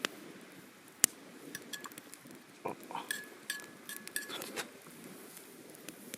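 Metal utensils clinking against metal cookware, several light strikes with a short ringing note, over a campfire crackling with sharp pops, the loudest snap about a second in.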